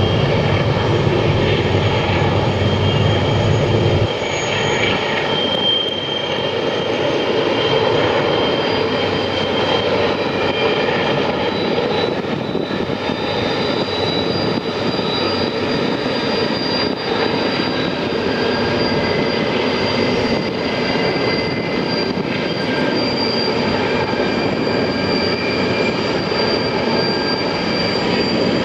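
Train running, a steady loud rumble with thin high whines held over it; the deepest part of the rumble eases about four seconds in.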